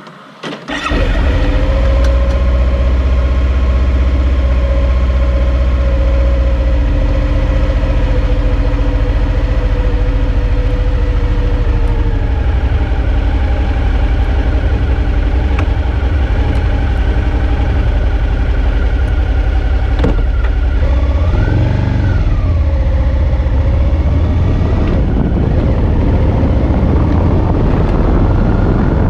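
Suzuki V-Strom 650's 645 cc 90-degree V-twin engine starting about a second in, then running steadily, with a brief rise and fall in pitch about three-quarters of the way through.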